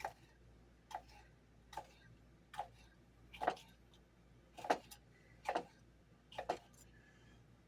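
Kitchen knife chopping cabbage on a cutting board: about eight evenly spaced knocks, a little under one a second, some of them doubled.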